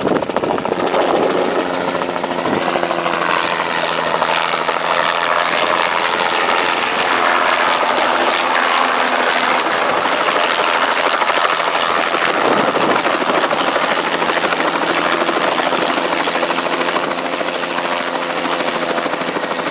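Helicopter running: a steady beat of the rotor blades over the engine's constant drone.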